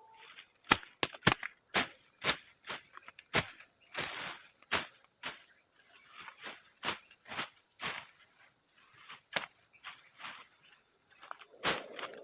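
Sharp knocks at irregular intervals, some in quick pairs, like a tool striking wood, over a steady high-pitched drone of crickets or other insects.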